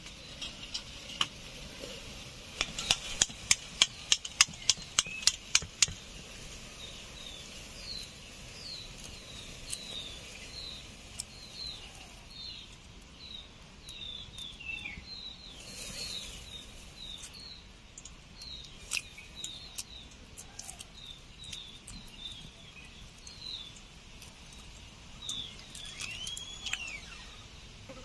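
Small birds chirping over and over in short falling chirps, with one longer call near the end. About three seconds in comes a quick run of a dozen sharp taps, as hard-boiled eggs are cracked for peeling.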